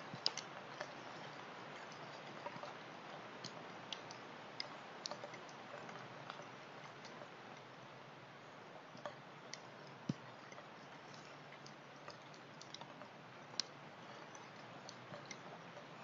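Light rain falling: scattered drops tick irregularly over a faint steady hiss.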